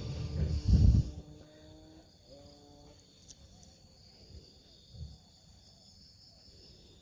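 Insects droning steadily in the background, with a loud low rumble about a second in and a few faint knocks and clicks afterwards.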